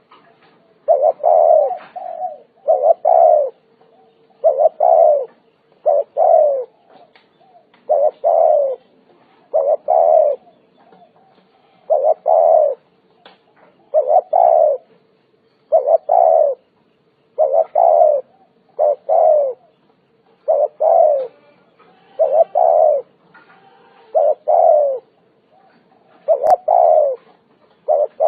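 Spotted dove cooing over and over, a short phrase of falling coos about every two seconds. A faint steady hum runs underneath, and a single click sounds near the end.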